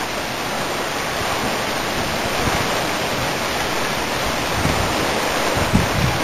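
Heavy, wind-driven downpour of rain, a steady rushing hiss, with a few brief low buffets near the end.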